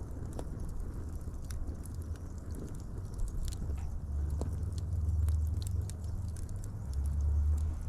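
Fire crackling, with frequent irregular sharp pops and snaps over a low rumble that swells twice.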